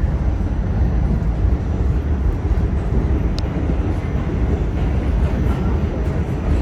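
R46 subway car running through the tunnel between stations, a steady loud rumble of wheels on rail and running gear heard from inside the car.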